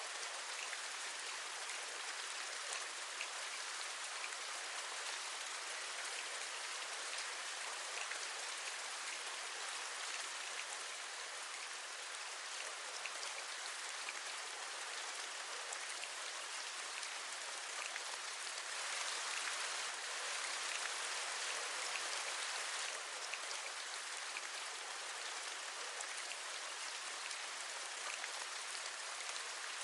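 Steady rain with scattered individual drops tapping, swelling a little for a few seconds about two-thirds of the way through.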